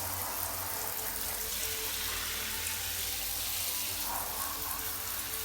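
Water running steadily from a tap, rinsing a mouse pad.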